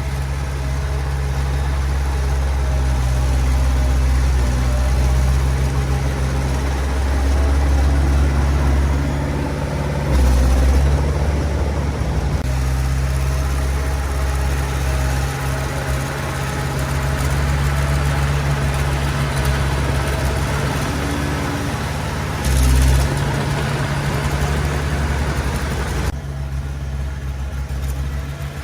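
Diesel engine of a small Komatsu D20 bulldozer running steadily as it works, with two brief louder surges, about ten seconds in and again near the end.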